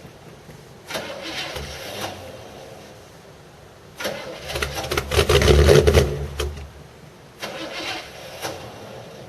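A 1979 Chevrolet Caprice's 305 V8 being cranked over in three separate tries, the middle one longest and loudest. This is a cold start attempt after two years sitting.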